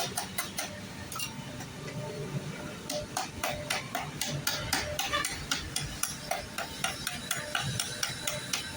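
A hammer tapping on a thin metal sheet being shaped into a motorcycle engine guard: quick, uneven metallic taps, several a second.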